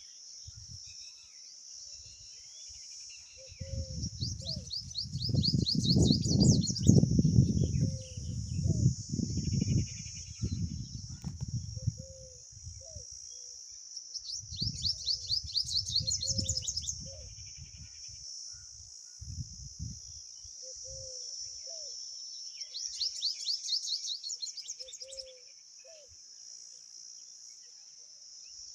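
A songbird repeats a fast trilled phrase three times over a steady high insect drone. Short low notes come every second or two, and bursts of low rumbling, loudest in the first half, rise and fall under them.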